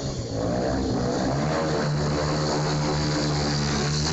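Stunt motorcycle engine revving up, then held at steady high revs.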